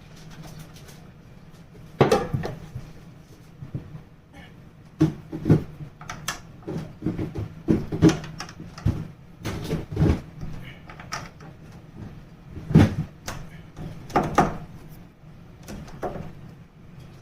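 Irregular clicks and knocks of an old doorknob and its parts being handled and worked on, the loudest about two seconds in and again near the last third.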